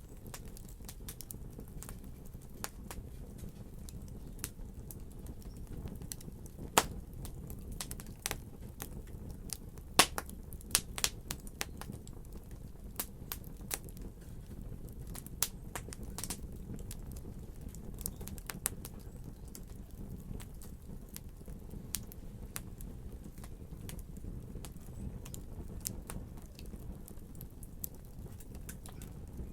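Wood fire crackling: irregular sharp pops and snaps over a low steady rumble, with a cluster of louder pops about ten seconds in.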